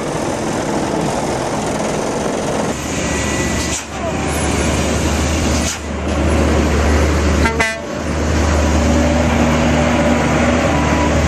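Heavy truck running, a steady engine drone with road noise, broken by a few brief drops that sound like cuts between clips.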